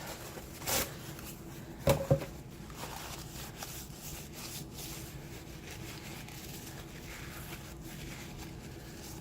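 Paper towel rubbing and wiping inside a plastic cup to dry it, with a couple of sharp knocks of the cup being handled about one and two seconds in, then a faint steady rustling.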